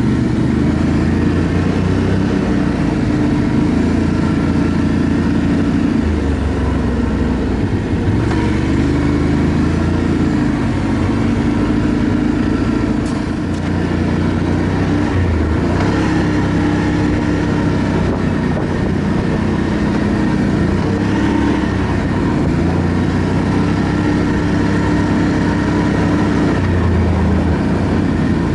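ATV engine running as it is ridden, its pitch stepping up and down every few seconds as the throttle and speed change.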